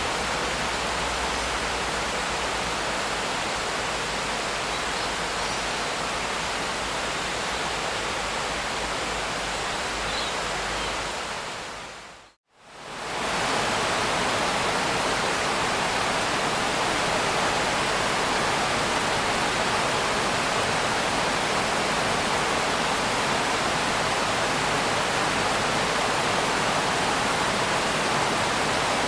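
Steady rain, an even hiss with no breaks in it. About twelve seconds in it fades quickly to silence and comes straight back, a little fuller.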